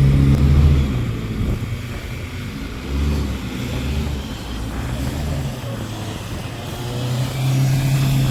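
Car engine revving in repeated surges as the car, stuck in snow, tries to pull away.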